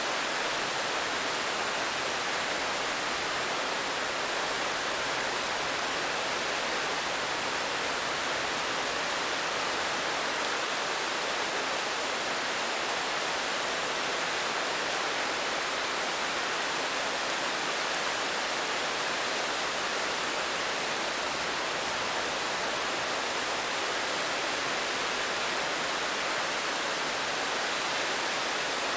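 Steady rain, an even hiss that never changes, with no single drops standing out.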